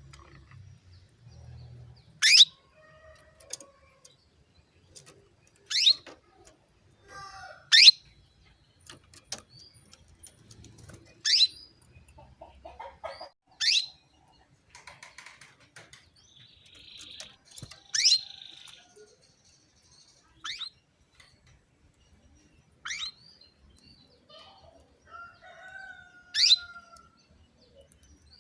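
Female canary calling for a male: single sharp calls that sweep steeply down in pitch, one every two to four seconds, about nine in all, with fainter chirps between.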